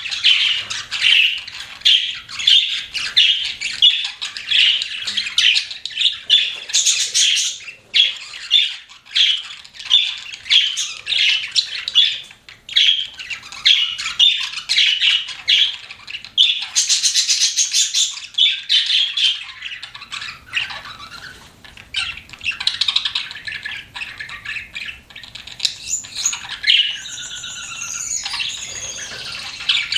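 Pet budgerigars chirping and chattering: a rapid, continuous run of short chirps, with a warbling stretch of gliding notes near the end.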